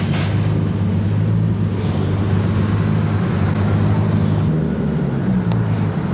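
Turbocharged Nissan Z car's engine running steadily while driving, a low drone that changes note about four and a half seconds in.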